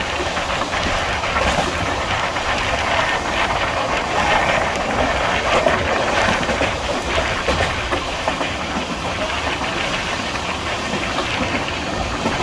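Passenger express train running along the track: a steady rush of wheels on rails, with scattered faint clicks.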